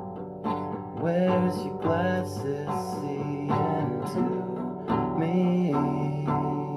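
Acoustic guitar being plucked and strummed, with a voice singing a wavering melody over it from about a second in until near the end.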